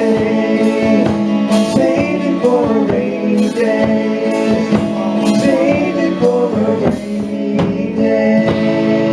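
Live country-rock band playing: guitars on sustained chords, a drum kit keeping a steady beat, and a wavering melodic lead line on top.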